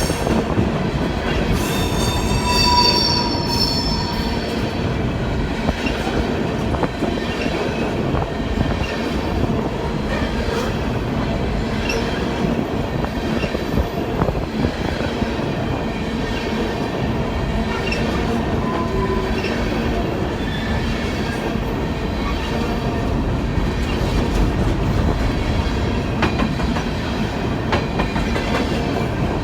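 Train rolling along the rails with a steady rumble, and a high-pitched wheel squeal about two seconds in that fades out after a couple of seconds, with a fainter squeal later.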